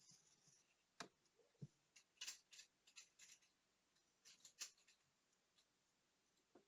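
Faint, scattered small clicks and brief scraping sounds of small tools and parts being handled on a Soviet 'Montana' digital watch.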